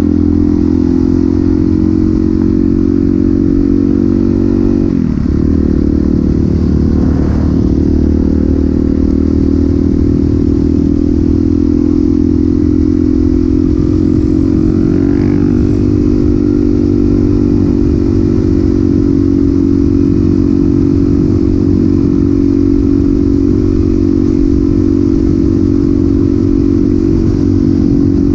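Suzuki DRZ400SM single-cylinder four-stroke running through a Yoshimura exhaust, holding nearly steady revs. The note dips briefly about five seconds in and rises slightly around fifteen seconds.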